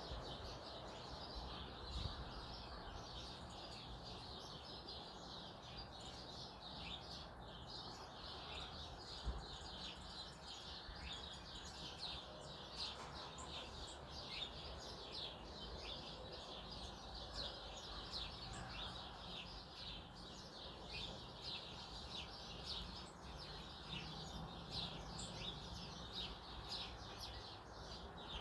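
Many small wild birds chirping at once, a dense stream of short high chirps over a low background rumble, with two brief low thumps about two and nine seconds in.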